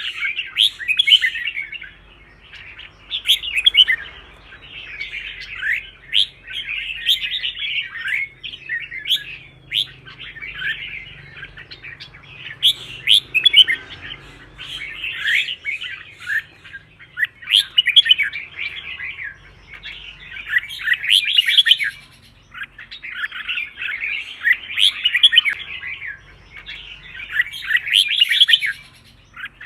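Red-whiskered bulbul singing: short, bright warbled phrases, one after another every two to three seconds.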